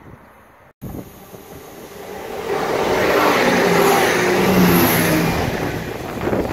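A train passing close by at speed. Its sound swells over about two seconds, is loudest in the middle with a steady engine or motor note under the noise, then falls away. Before it, a brief silent gap about a second in breaks off a quieter stretch of lineside background.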